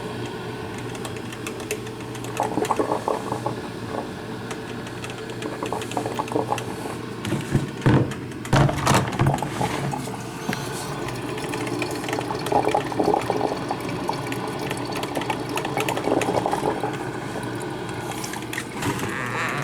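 Drip coffee maker brewing: water sputtering and gurgling through it over a steady low hum, with a few louder irregular bursts about eight seconds in.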